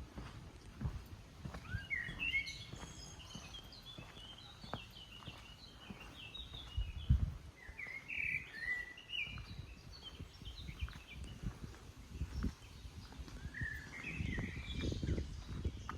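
A songbird singing quick warbling phrases, three bouts: about two seconds in, mid-way and near the end. Irregular low thumps and rumble sound underneath.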